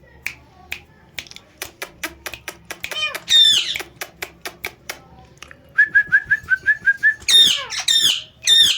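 Finger snaps that quicken over the first few seconds, then an Indian ringneck parrot's loud harsh squawks, once about three seconds in and three times near the end, with a run of short whistled chirps between.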